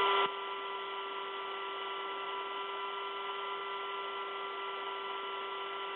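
Steady whine of a rescue helicopter hovering, several fixed high tones over an even hiss, muffled as if heard through the crew's intercom.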